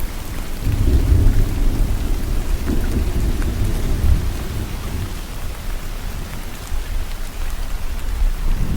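Steady rainfall with a low rolling rumble of thunder that swells about a second in and dies away by about five seconds, with another low rumble starting near the end.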